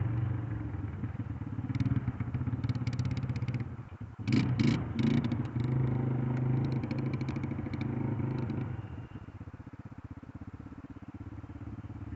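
Dirt bike engine running and changing pitch as it is ridden, with a louder surge of throttle about four seconds in and scattered clicks. The engine fades away after about nine seconds as the bike moves off.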